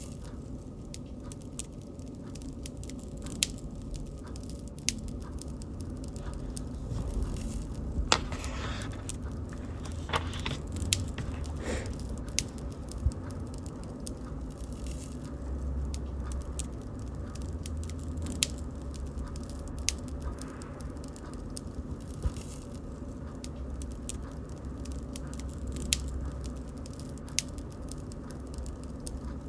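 Bonfire burning: wood crackling with sharp pops every second or two over a low steady rumble of the flames.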